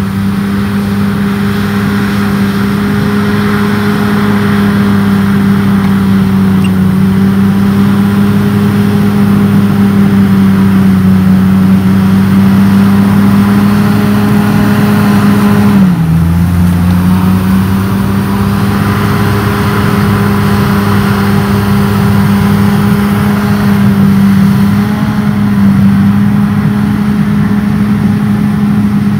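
Bulldozer's diesel engine running steadily at high revs, its pitch dipping briefly about sixteen seconds in before picking back up.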